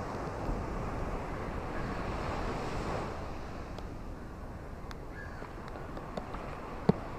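Ocean waves washing on a beach: a wave swells and breaks about a second in and washes back out after about three seconds. A sharp click near the end.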